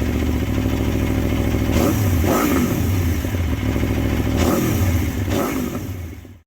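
Aprilia RSV4's V4 engine through an SC Project exhaust idling, with a few short throttle blips that rise and fall quickly, then fading out near the end.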